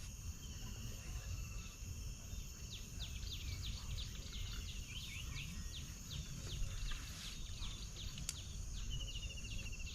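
Outdoor birdsong: a run of many short, quick chirps in the middle, over a steady high insect drone, with a fast pulsing trill near the start and again near the end.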